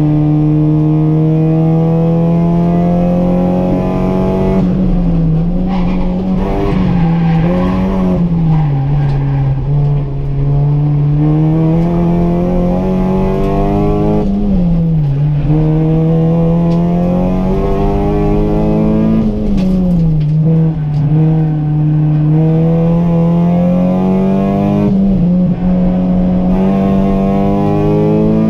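Honda Civic's four-cylinder engine heard from inside the cabin, running hard at high revs. Its pitch climbs slowly and dips briefly several times as the driver lifts or changes gear, over a layer of road and wind noise.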